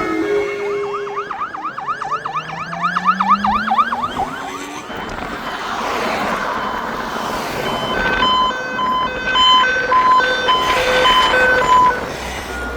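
Fire engine sirens in a passing procession: a fast yelp siren sweeping up and down about four times a second, with a slower rising tone beneath it, then a two-tone hi-lo siren alternating steadily for about four seconds near the end.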